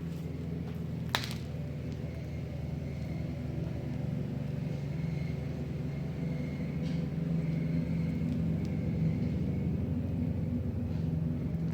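A motor running steadily with a low hum, and a single sharp click about a second in.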